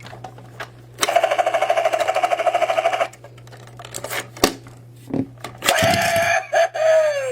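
A battery-powered toy helicopter's electronic rotor sound effect from its small speaker: a rapid, even chopping pulse, about twelve beats a second, for about two seconds. Plastic clicks follow as a die-cast car is handled in the toy's door, and near the end the toy gives another electronic sound whose pitch falls away.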